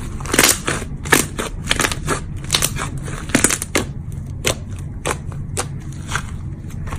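Slime being squeezed and pressed by hand, giving irregular sharp crackling snaps, about two a second, over a steady low hum.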